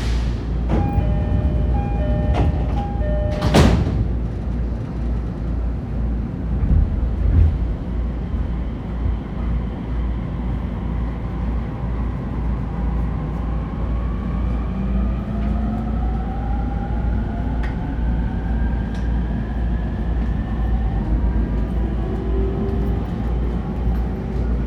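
E231-1000 series commuter train departing: a door chime of held tones, then the doors sliding shut with a thump about three and a half seconds in. The train then pulls away, its traction motor whine rising slowly in pitch as it accelerates, over a steady rumble.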